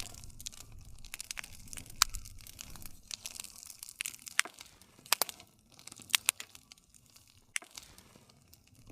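Wood campfire crackling: sharp, irregular pops and snaps over a soft hiss and low rumble of the burning fire, with a few louder pops about two seconds in and about six seconds in.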